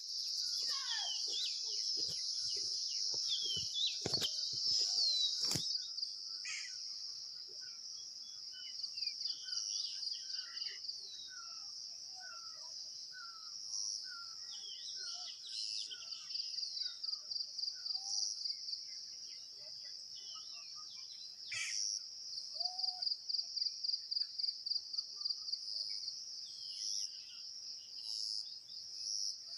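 A steady, high-pitched chorus of insects that pulses rapidly at times, with birds chirping short repeated notes over it. A few sharp knocks come in the first several seconds.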